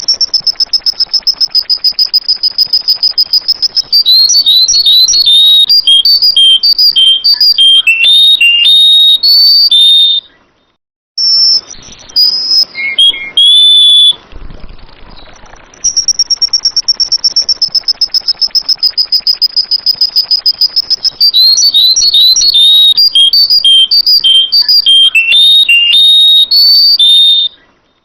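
Sooty-headed bulbul song: a fast, steady high trill, then a run of varied clear whistled notes. After a short break the same phrase sequence repeats about halfway through, as in a looped training recording.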